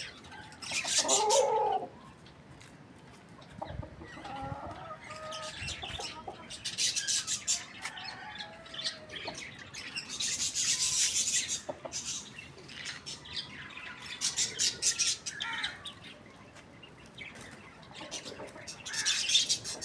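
Domestic chickens, a rooster and a hen, clucking at intervals, with several short bursts of higher-pitched chirping.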